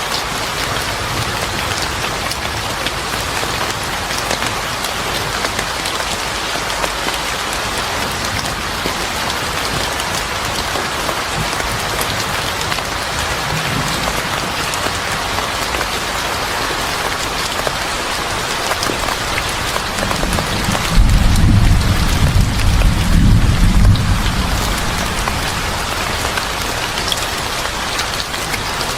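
Steady heavy rain falling on a surface, with a low rumble of thunder rising about two-thirds of the way in and fading after a few seconds.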